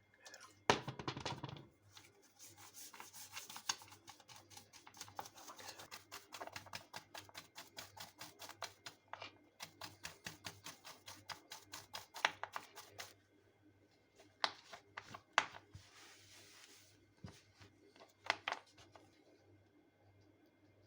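Fast, rhythmic scrubbing or scraping strokes, several a second for about ten seconds, from hand work on carburetor parts. A short noisy burst comes about a second in, and a few separate sharp clicks and a brief soft hiss come near the end.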